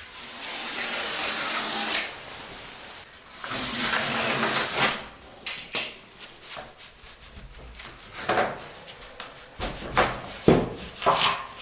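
Hand cutting of a superizol (calcium silicate) board sheet: two long scraping stretches of cutting, then a run of scattered knocks and taps as the board and tools are handled.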